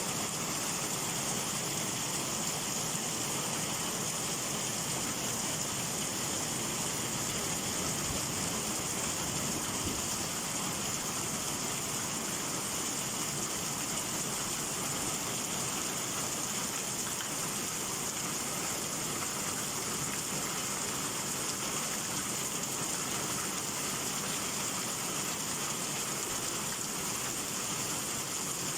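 Heavy summer downpour: rain falling in a steady, even hiss.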